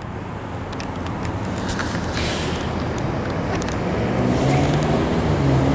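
A motor vehicle running, growing steadily louder, with a low engine hum coming in near the end.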